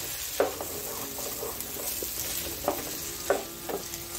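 Shallots and spring onion flower stalks sizzling in hot oil in a nonstick pan, with a wooden spatula stirring and scraping them a few times.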